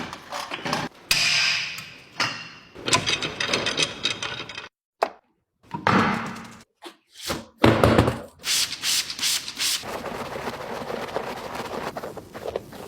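Automatic car wash working on a car: knocks, thuds and rubbing noise against the bodywork, in short clips cut together with abrupt silent gaps.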